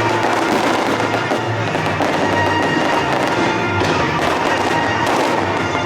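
Fireworks going off in a dense run of crackling bursts, with stronger bangs about four and five seconds in, while music plays along loudly.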